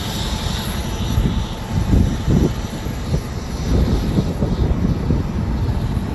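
Strong wind buffeting the camera microphone: an irregular, gusting low rumble that swells and drops several times.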